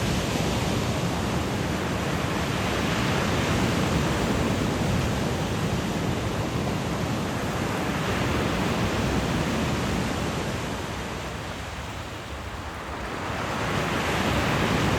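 Sea waves breaking and washing up the shore in slow swells, over the steady rush of a small stream running into the sea. The wash eases about twelve seconds in, then a fresh wave breaks near the end.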